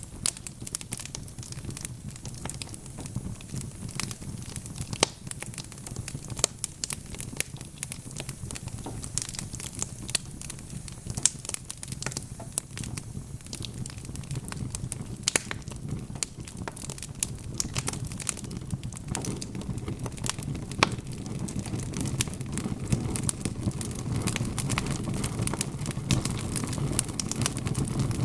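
Wood fire crackling, with frequent sharp pops and snaps from the burning logs over a steady low rumble that grows gradually louder in the second half.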